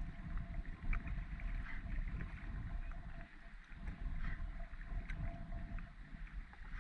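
Wind buffeting the microphone with an unsteady low rumble, and small splashes and ticks of water against a small boat's hull.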